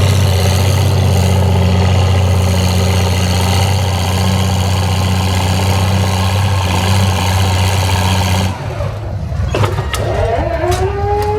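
Antique farm tractor engine running steadily under load during a tractor pull, then cutting off suddenly about eight and a half seconds in. A few sharp clicks follow.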